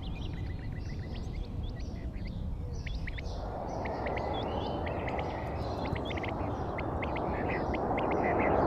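Small birds chirping many times in quick short notes over a steady low rumbling noise, which grows louder from about three seconds in.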